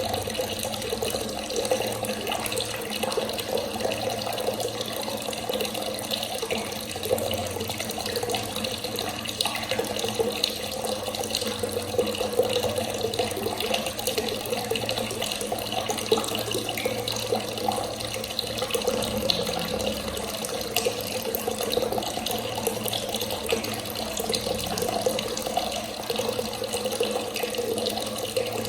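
Water running steadily from a tap and splashing, without a break.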